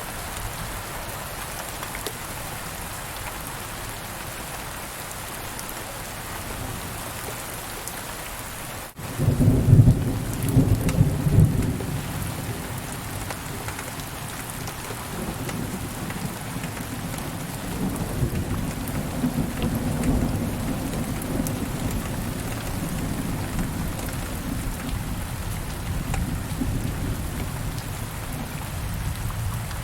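Steady rain falling, with thunder breaking in about nine seconds in, loudest for a few seconds, then rolling on as a lower rumble under the rain.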